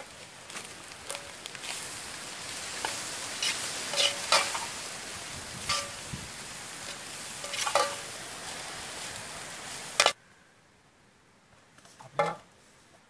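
Goat blood fry sizzling in a black iron wok while a metal spatula scrapes and clinks against the pan as it is stirred. The sizzle stops suddenly about ten seconds in, and a metal ladle clinks once against a steel plate near the end.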